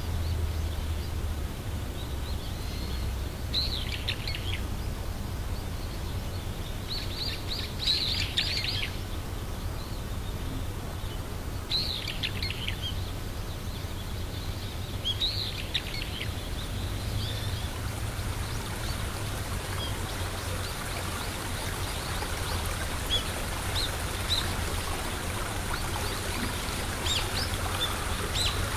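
Birds calling in short clusters of high notes every few seconds, over a steady low rumble.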